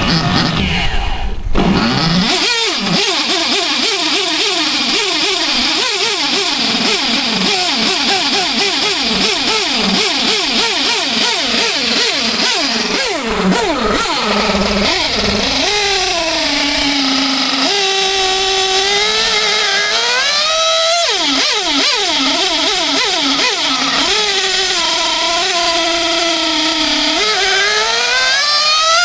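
O.S. Max .21 nitro R/C engine running loud at high revs: it is blipped in rapid rising-and-falling bursts for the first half, then held at a high-pitched scream whose pitch swings up and down, climbing steeply near the end as it runs higher than ever.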